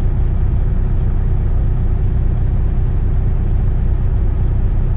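Semi truck's diesel engine idling: a steady, unbroken low rumble heard from inside the cab.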